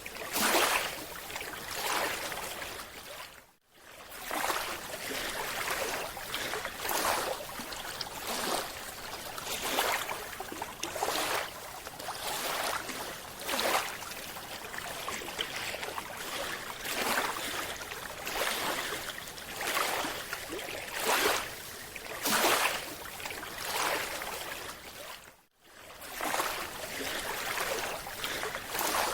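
Underwater sound of water and bubbles, rushing in repeated surges about every second or two, dropping out briefly twice.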